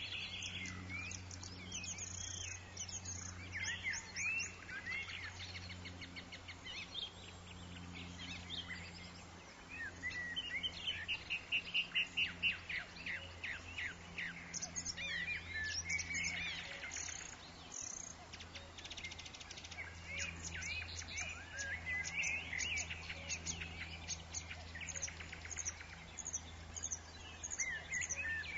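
Forest birds chirping and singing together, many overlapping calls with quick runs of repeated trill notes, loudest about twelve seconds in. A steady low hum runs underneath.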